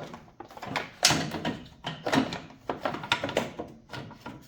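Irregular clanks, knocks and scraping of metal parts and tools being handled while working on a lawn tractor's mower deck, with several sharper knocks in quick succession.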